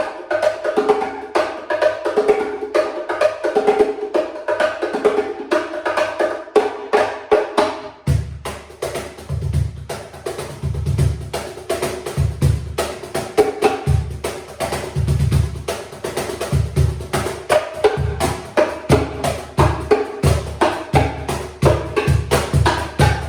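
Hand-played bongo cajon: a quick, rhythmic groove of slaps on its wooden tapas in mid and high tones. About eight seconds in, deep bass strokes from a regular box cajon join in, and the two are played together as one groove.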